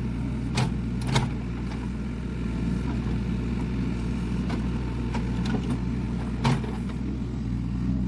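Hyundai 55-class mini excavator's diesel engine running steadily, with a few sharp metallic knocks from the machine working.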